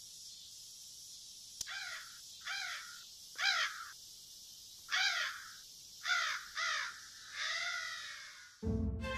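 A bird calling seven times with harsh, crow-like calls at uneven intervals, the last one drawn out, over a steady hiss. Music starts just before the end.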